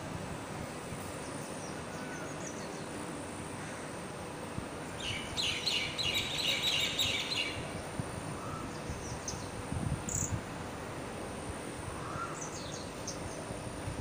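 Small birds chirping over steady outdoor background noise, with a burst of rapid, dense twittering about five seconds in that lasts around two seconds and a few scattered single chirps later.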